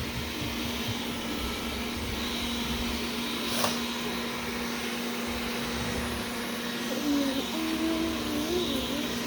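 Wyze robot vacuum running with a steady motor hum and whir. There is a single click about three and a half seconds in, and a short wavering pitched sound near the end.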